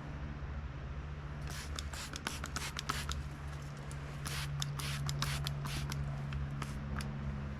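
Hand sanding a steel Damascus knife blade with 1000-grit sandpaper: a run of short, irregular scratchy strokes starting about a second and a half in and stopping near the end, over a steady low hum.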